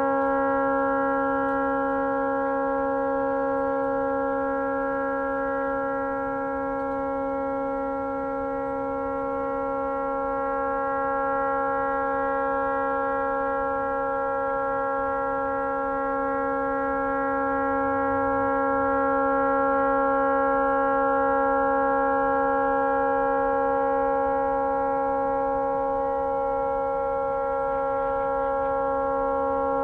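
A tugboat's horn stuck on, sounding one unbroken, steady blast of several tones together, its loudness swelling and easing slightly. The horn has malfunctioned and cannot be shut off.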